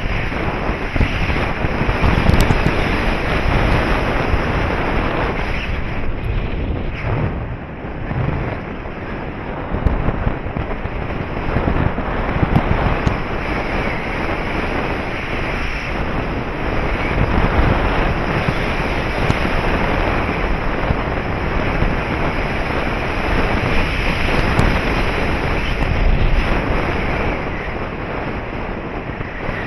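Wind rushing over the microphone of a paraglider pilot in flight: a loud, continuous rush of wind noise that swells and dips.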